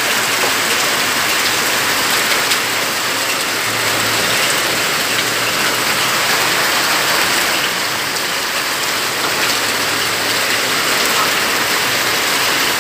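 Heavy rain pouring down in a loud, steady hiss, with the odd sharper drop hit.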